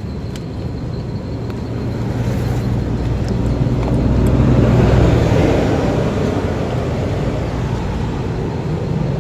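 A car engine running with a steady low hum, swelling to a peak about halfway through and then easing back.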